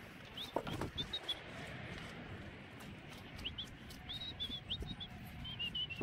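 A small bird chirping outdoors, short high notes repeated in little groups. A few sharp knocks about half a second to a second in.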